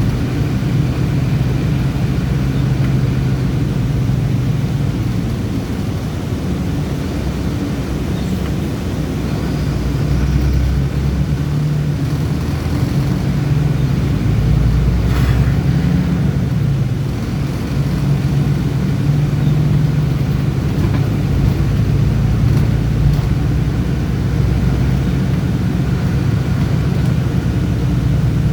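Bus engine and road noise while driving: a steady low drone that swells a little now and then, with a brief faint tick about halfway through.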